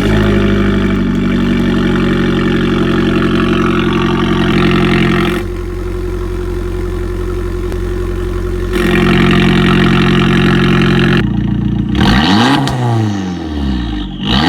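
Abarth 500/595's turbocharged 1.4-litre four-cylinder through an aftermarket exhaust, held at steady raised revs for about eleven seconds, then revved in several quick blips near the end, the pitch swooping down and up.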